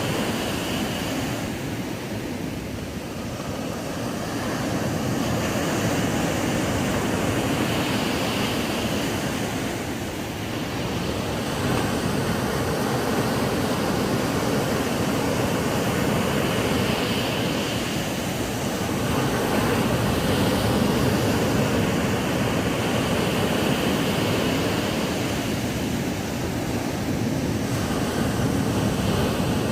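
Ocean waves washing onto a sandy beach. The surf rushes steadily and swells and ebbs gently every several seconds.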